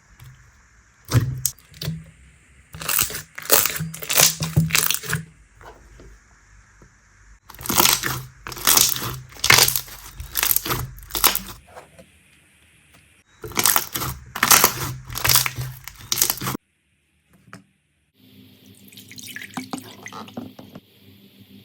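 Slime being squeezed and squished, giving runs of wet crackling and popping in three bursts, each a few seconds long. It cuts off suddenly, and near the end quieter, finer crackling follows.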